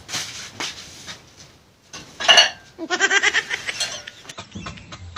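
Aluminium cookware knocked together as a mock lato-lato clacker: scattered light clinks, then a loud metallic clang about two seconds in. A burst of laughing follows, with more clinks.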